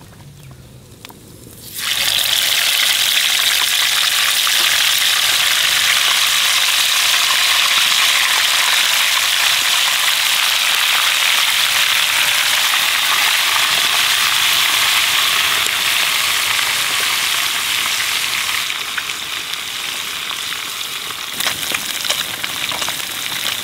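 Catfish pieces deep-frying in hot oil in a pan over a wood fire: the sizzle starts suddenly about two seconds in as the fish goes into the oil, runs loud and steady, and eases slightly near the end with a few crackles.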